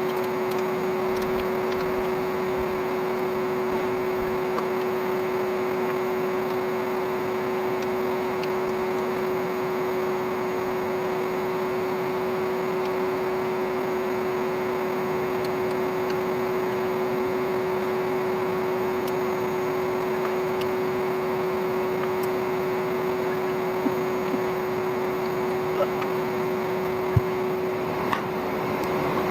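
Old vacuum cleaner motor running steadily as the air blower of a homemade coal forge: a constant hum over a rushing of air. A few light clicks near the end.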